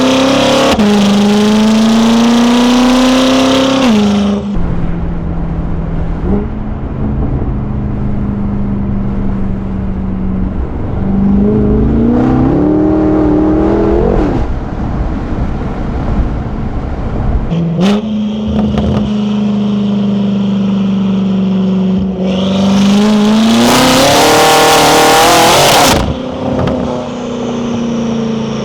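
BMW F10 M5 Competition's twin-turbo V8 through an Akrapovic exhaust, accelerating hard with the pitch climbing and then dropping at each gear change, with lighter running between the pulls. The loudest pulls come at the start and again about three-quarters of the way in.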